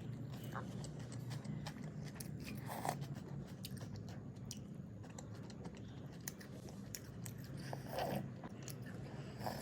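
A person chewing chicken momo dumplings, with many small mouth clicks scattered throughout.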